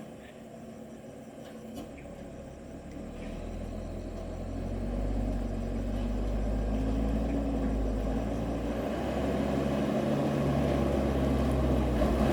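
Diesel dump truck engine running, growing steadily louder from about three seconds in as the truck draws closer.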